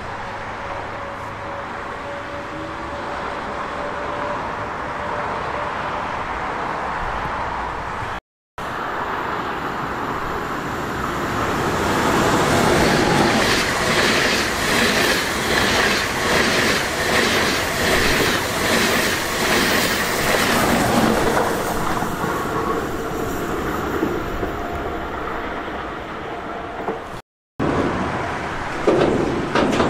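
Freight train of hopper wagons rolling past, with a faint thin high tone from the wheels. After a cut, an ICE high-speed train passes close by: its rolling noise swells and carries a rhythmic clatter of wheelsets over the track. Near the end, after another cut, a hopper-wagon freight train rolls past with clicking wheels.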